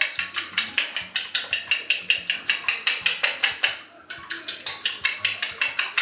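Eggs being beaten with a utensil in a bowl: rapid, even clinking at about five strokes a second, with a brief pause about four seconds in.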